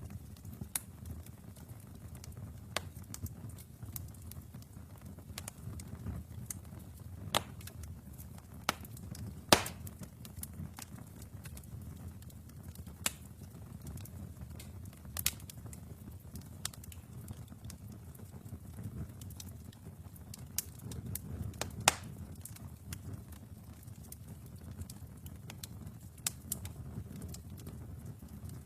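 Wood fire burning in a fireplace: a low steady rumble of flames with irregular crackles and sharp pops of burning logs, the loudest pops about ten seconds in and again a little past twenty seconds.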